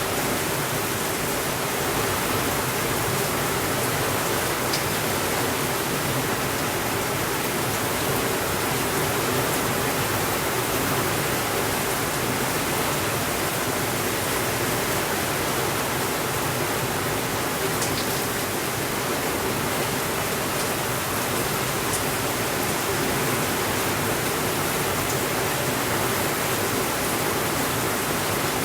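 Heavy rain falling in a steady, even hiss, with a few faint sharp ticks scattered through it.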